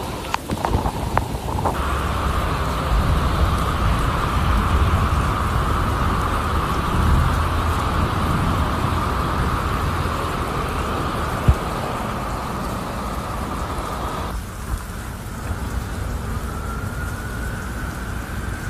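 Heavy rain pouring down, a dense steady hiss over a strong low rumble. About 14 seconds in the sound changes abruptly to a lighter rain.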